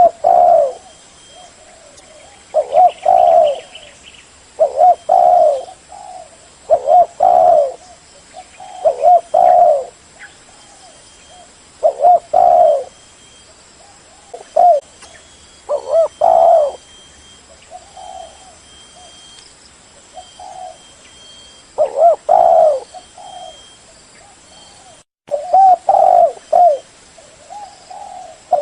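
Spotted dove cooing: short repeated phrases of low, mellow coo notes, one phrase about every two seconds.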